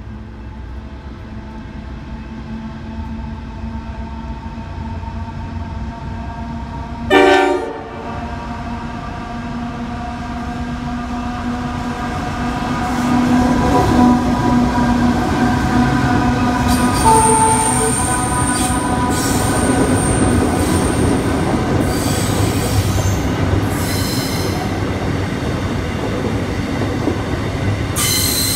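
Diesel container freight train led by a CF-class locomotive approaching and running through: the engine rumble builds, a short horn blast sounds about seven seconds in, and the locomotives pass loudest. Then the container wagons roll by with a high wheel squeal.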